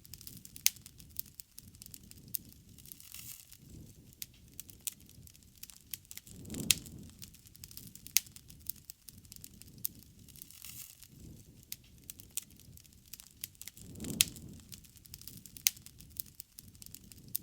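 Wood bonfire crackling, with many small sharp snaps and a few louder pops. Twice a low rush of flame swells and fades, about a third of the way in and again near the end.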